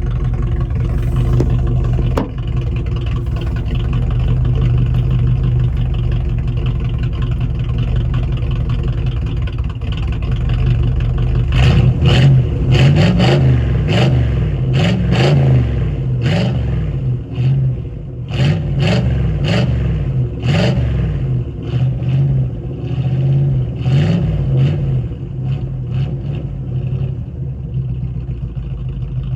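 Small-block Chevy 283 V8, bored .060 over with a mild cam, running through the exhaust of an '85 Monte Carlo. It idles steadily, is revved repeatedly in quick blips from about halfway through, then settles back to idle near the end.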